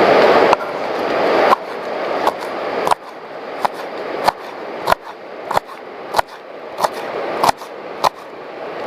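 Knife slicing curly green chillies on a cutting board: a steady chopping rhythm of sharp taps, about one every two-thirds of a second, each with a short scrape before it. A steady rushing noise cuts off about half a second in.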